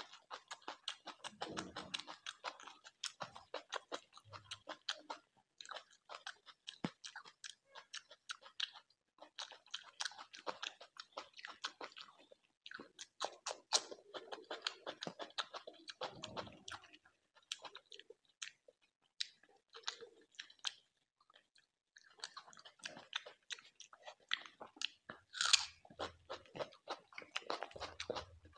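A person chewing and crunching a mouthful of chicken and rice in many rapid clicks, pausing briefly a few times, with one louder crunch about 25 seconds in.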